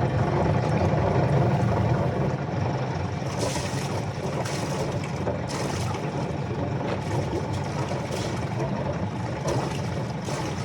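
Sailboat's auxiliary engine running steadily at low speed while it is manoeuvred slowly into a dock, with a few short hisses near the middle.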